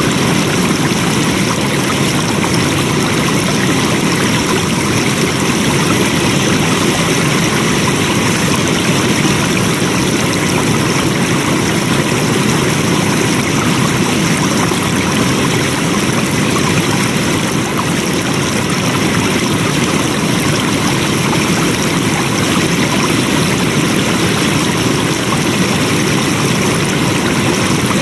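Flowing water: a stream running steadily over rocks, an even rushing with no breaks.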